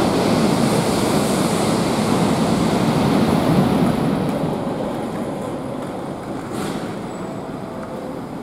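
Shinkansen bullet train moving along the station platform, a steady rumbling rush of air and wheels that fades gradually as the train draws away.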